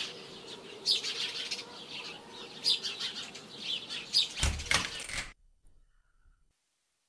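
Small birds chirping in repeated short bursts. About four and a half seconds in there is a louder low rumble, as the door bolt is drawn and the door opens, and then the sound cuts out to near silence.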